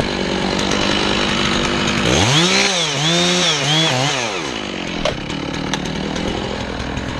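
Chainsaw cutting into a pine trunk. About two seconds in its engine revs up and labours, the pitch wavering under load for a couple of seconds before it drops back, over a steady engine drone.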